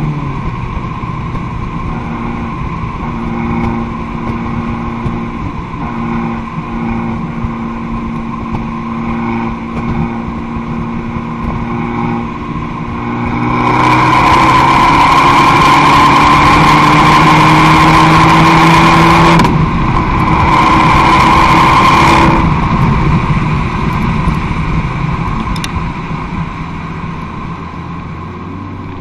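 Abarth 595 Competizione's turbocharged four-cylinder engine sounding through an Akrapovic exhaust: a steady engine note, then about halfway through it gets much louder as it accelerates, its pitch climbing. It breaks off for about a second, comes back loud for a couple of seconds, then eases off and fades.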